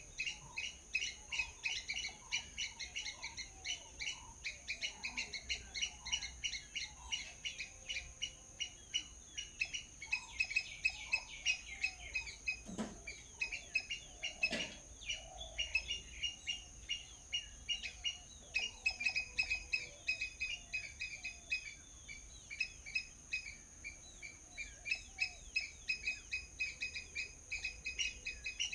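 A flock of small birds chirping rapidly and without a break, many short chirps a second, over a steady high-pitched tone. Two sharp knocks come near the middle.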